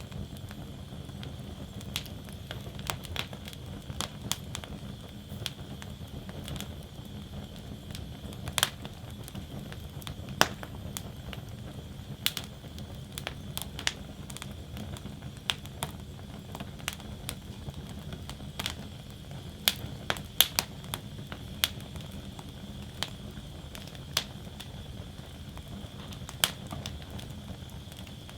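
Wood fire burning in a fire basket, crackling with irregular sharp pops and snaps over a steady low rumble of flames.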